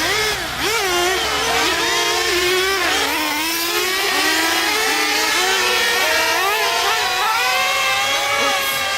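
Several nitro RC trucks and truggies running at once, their small two-stroke glow engines revving up and down in overlapping high-pitched whines.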